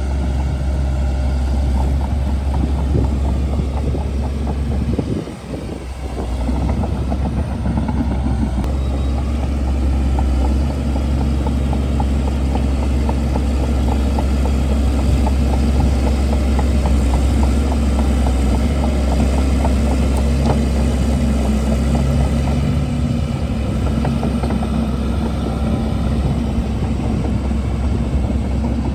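Shantui DH17C2 bulldozer working: its diesel engine runs with a deep steady drone under a dense clatter of small knocks, the sound dipping briefly about five seconds in.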